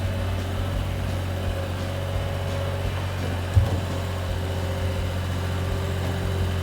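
A farm vehicle's engine running steadily with a low hum, and a single sharp knock about three and a half seconds in.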